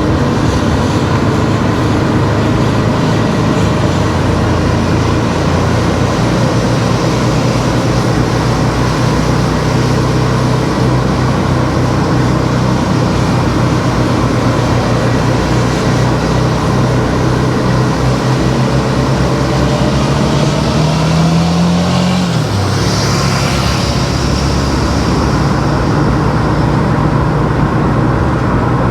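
Car driving on a road: steady engine hum over tyre and road noise. The engine note climbs and then drops sharply about 22 seconds in, followed by a brief rushing noise.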